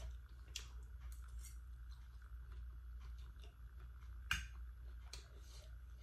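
A person eating noodles: chewing and small mouth smacks, with scattered light clicks and one sharp click about four seconds in.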